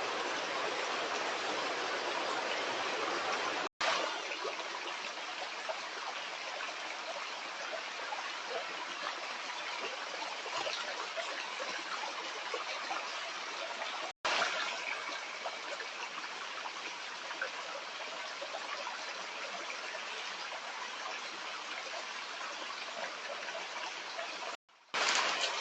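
Stream water running with a steady rush. It cuts out for an instant three times, about 4, 14 and 25 seconds in, and resumes each time.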